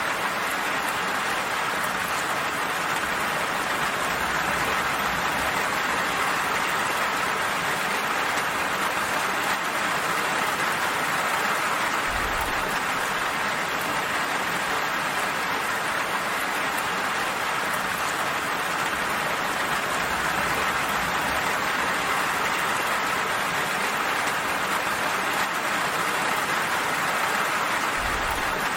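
Steady, gentle rain falling: an even, unbroken hiss.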